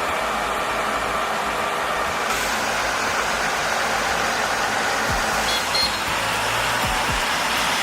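Heavy construction machinery running steadily, with a continuous engine and work noise and a few brief high tones about five and a half seconds in.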